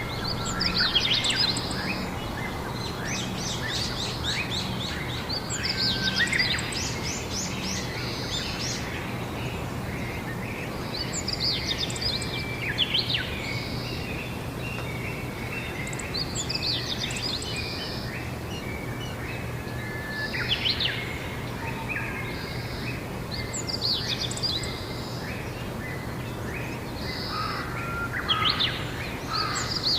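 Songbirds singing outdoors: short, chirpy song phrases that repeat every few seconds, over a steady background hiss and a low, constant hum.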